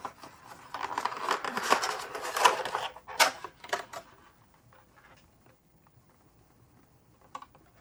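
Plastic toy parts and packaging being handled, a quick run of clicks and rustles with one sharp click about three seconds in. After that it falls to faint room tone, broken by a couple of small clicks near the end.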